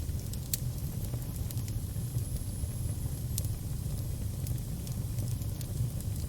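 Fire burning, a steady low roar with scattered sharp crackles and pops at irregular intervals.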